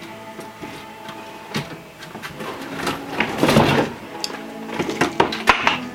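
Tools and hardware being handled and rummaged through: scattered clicks and knocks, with a denser rattling clatter about three and a half seconds in.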